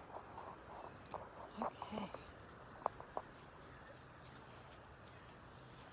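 Faint outdoor chirping: a short high call repeats roughly once every second and a bit, with a few scattered shorter chirps and clicks in between.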